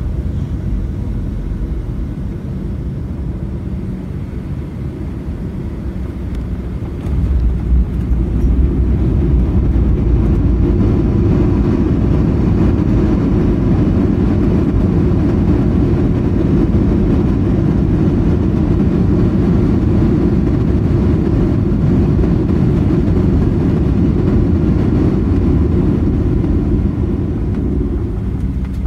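Cabin noise of a Boeing 737-700's CFM56-7 engines and rushing air on final approach. About seven seconds in it jumps suddenly to a louder low rumble, the touchdown and engines spooling up into reverse thrust during the rollout, and it eases off near the end as the reversers are stowed.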